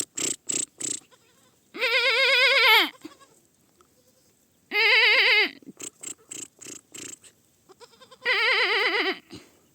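A young goat kid bleating three times, each bleat about a second long with a quavering, wavering pitch that drops at the end. Short clicking taps come between the bleats.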